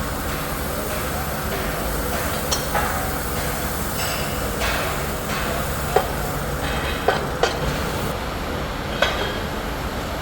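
Workshop machinery running with a steady rumble and hum, with a few sharp metallic clanks, the loudest a little over halfway through.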